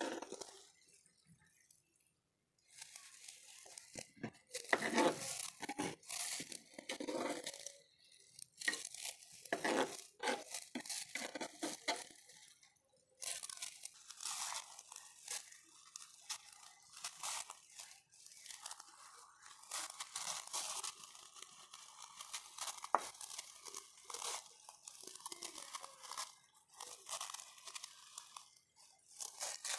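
Chillies being chopped with a knife on a cutting board, then handled with plastic-gloved hands and tipped from a glass bowl into a stone mortar: irregular crunching, crinkling and small clicks. The sounds come in short runs with brief pauses, and run more continuously from about halfway.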